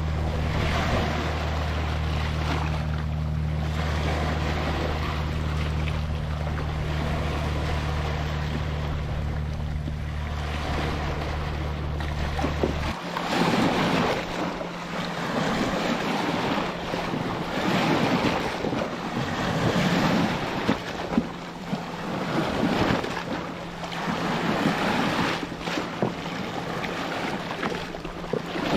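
Ocean waves breaking and washing on a beach, swelling and falling every few seconds. A steady low mechanical hum, like a motor, runs under the surf and cuts off suddenly about halfway through.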